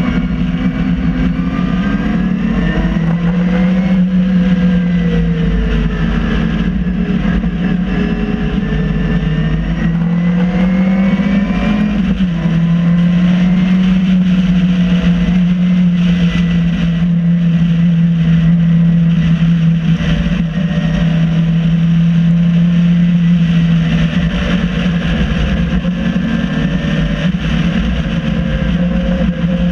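MG Midget race car's four-cylinder engine heard from the open cockpit at racing speed, its note rising and falling through the first dozen seconds, then held steady for about ten seconds before dipping and climbing again near the end. A steady rush of wind and road noise runs under it.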